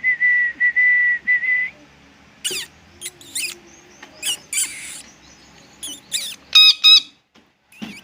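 Parrots whistling and calling: a steady, level whistle for the first second and a half, then short rising chirps and calls, and two loud, sharp calls about a second before the end.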